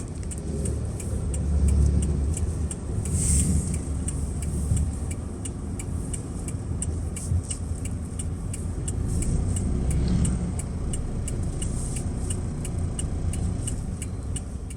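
Car engine and road rumble from inside the cabin while driving, swelling and easing with speed. Over it comes a steady, even ticking, about two to three ticks a second, typical of a turn-signal indicator during a turn.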